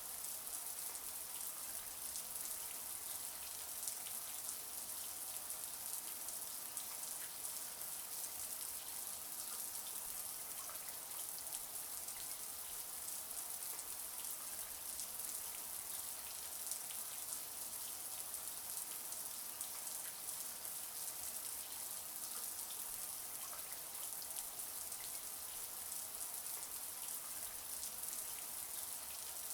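Shower water spraying and pattering steadily on a surface, a constant hiss with many fine droplet splashes.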